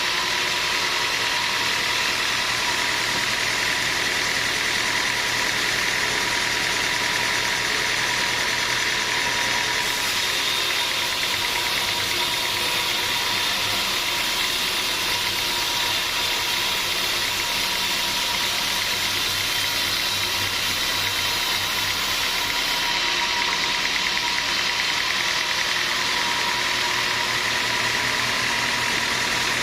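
Sawmill machinery running steadily, a continuous mechanical drone with a constant whine. The high hiss grows stronger about ten seconds in and eases off again later.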